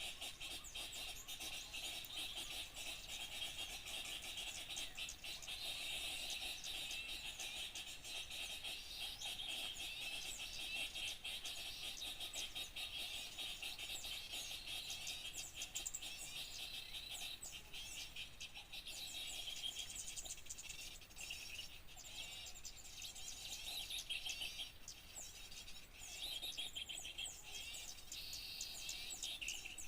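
Dense, continuous chattering and chirping of many small birds at once, the rapid high chirps overlapping without pause and thinning a little in the last third: a bird-luring call recording meant to draw small birds in.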